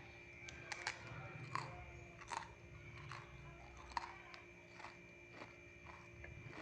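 Close-up mouth sounds of someone chewing crunchy food, with sharp irregular crunches about once or twice a second over a faint steady hum.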